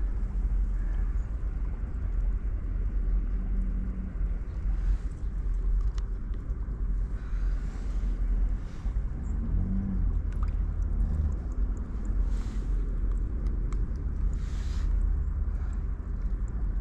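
Steady rush of river water mixed with a low rumble of wind on the microphone.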